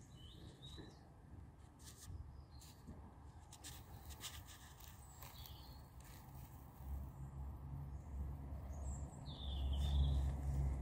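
Birds chirping now and then over a quiet outdoor background, with a few sharp clicks in the middle and a low rumble that builds in the second half and is loudest near the end.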